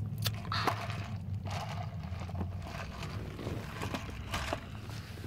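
Low, steady rumble of a vehicle's engine heard inside the cabin, with scattered clicks and rustles from the phone being handled.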